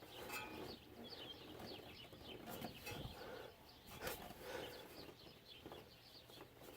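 Small birds chirping faintly and repeatedly in short falling notes, with a few soft knocks, the loudest about four seconds in.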